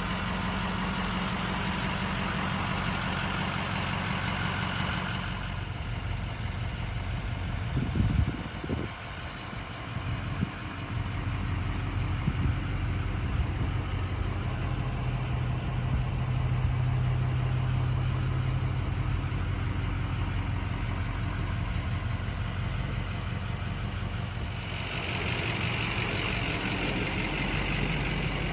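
Ford 6.0L Power Stroke V8 diesel engine idling steadily, with a few sharp knocks about eight seconds in.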